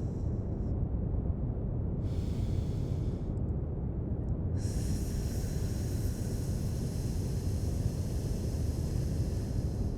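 Steady brown noise, with a person breathing out through the teeth on a hissing "sss": a short exhale about two seconds in and a long one from about halfway through, part of a series of S-sound exhales for calming the breath.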